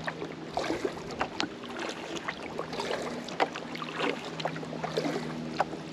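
Kayak paddling: irregular splashes and knocks of the paddle on the water and hull, over a faint low steady hum.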